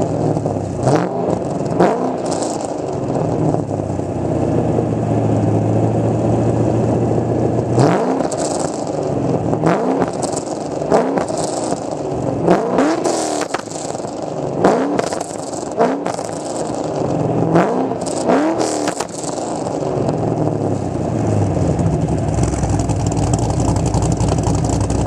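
Pontiac GTO V8 breathing through a Borla exhaust, idling and revved in short sharp throttle blips, over a dozen of them, with steady idle stretches in between.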